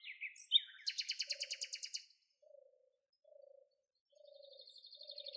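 Bird calls: a fast, high trill of repeated chirps for the first two seconds, then a buzzy trill from about four seconds in, over a low cooing note repeated about once a second.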